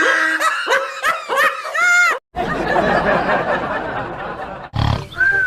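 A person laughing in quick repeated pulses, cut off abruptly about two seconds in, followed by a steady noisy hiss.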